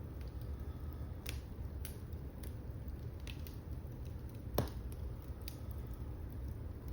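Wood fire burning in a fireplace: a low, steady rumble of flames with scattered crackles and one louder pop about two-thirds of the way through.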